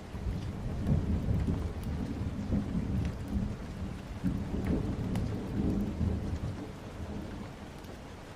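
A long roll of thunder over steady rain: the deep rumble swells at the start, rolls on for several seconds and fades away near the end, while the rain keeps on underneath.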